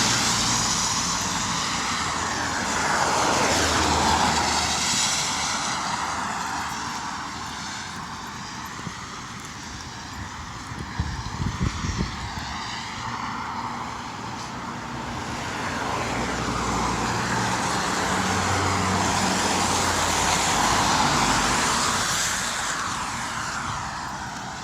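Road traffic going by: engine hum and tyre hiss from passing vehicles, swelling and fading several times as they pass. A few sharp clicks come about halfway through.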